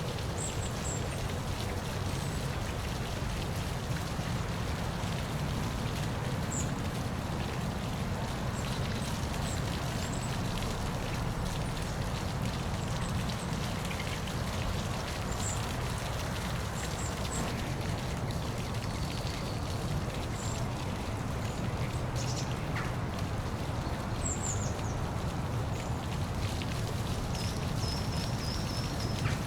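Waterfall splashing in a steady, even rush that is heaviest in the low range. Faint, short high chirps come and go throughout, with a quick run of them near the end.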